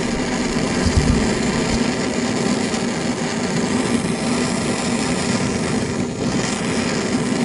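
Gas torch burning with a steady, unbroken hiss as it heats the bolts.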